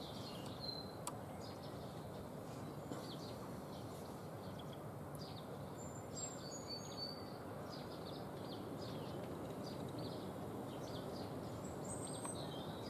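Small woodland birds calling faintly: short high chirps and brief whistled notes scattered throughout, over a steady background hiss.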